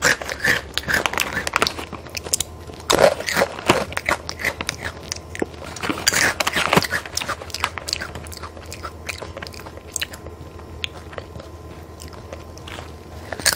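Crunching and chewing of a crisp, spicy puffed snack: several loud crunchy bites in the first seven seconds, then softer chewing.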